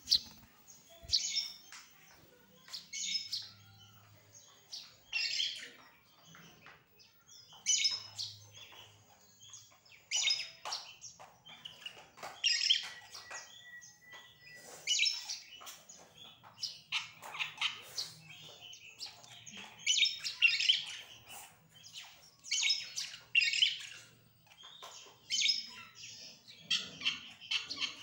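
Small bird chirping: clusters of short, high chirps repeating every second or two.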